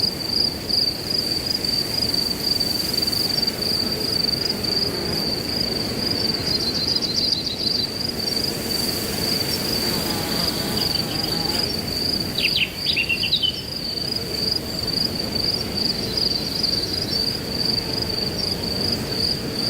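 Crickets trilling steadily at a high pitch over a rustling of wind through grass, with a short bird call of a few quick falling notes about twelve seconds in.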